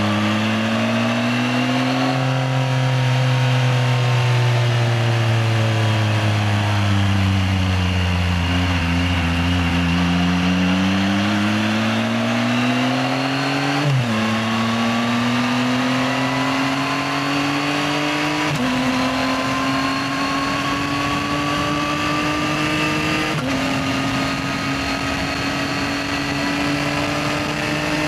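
Yamaha XSR900's inline three-cylinder engine under way: engine speed rises and falls through the first half, then it pulls up through the gears, the pitch dropping suddenly at three upshifts and climbing slowly after each.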